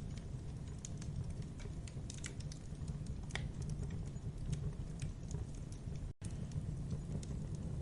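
Campfire burning: burning wood crackling with irregular sharp snaps and pops over a steady low rumble of the flames. The sound cuts out for a split second about six seconds in.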